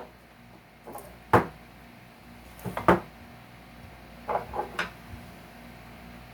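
Sharp knocks and clicks of a metal tool working large staples out of salvaged couch wood: one hard knock, a pair of knocks, then three quick clicks.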